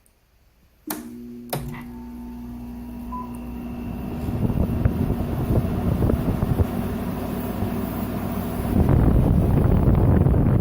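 Arctic King window air conditioner switched to low cool: a couple of clicks from the control knob about a second in, then a steady low hum from the unit as it starts cooling and a rush of fan air that builds, growing louder near the end.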